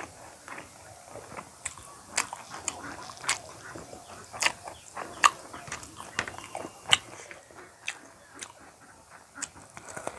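Close-miked chewing and mouth sounds of a person eating rice and fish curry by hand: irregular wet clicks and smacks.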